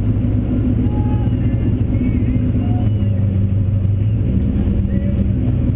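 Car engine running steadily at low revs, a constant low drone heard from inside the cabin.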